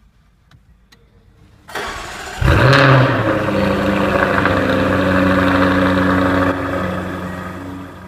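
The 2015 Jaguar F-Type R's 5.0-litre supercharged V8 is started: the starter spins briefly, and the engine catches with a sharp rev flare. It then settles into a steady fast idle, easing down in level near the end.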